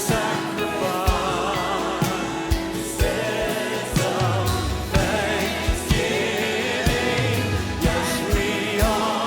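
Live worship music: voices singing over a band, with a steady drum beat about once a second.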